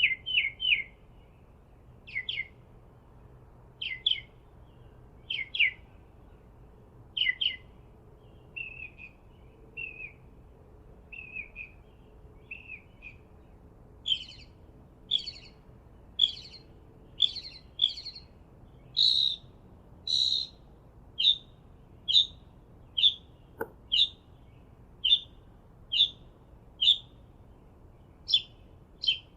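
A bird calling in short, repeated chirps, about one a second, some notes doubled and the later ones higher and brighter.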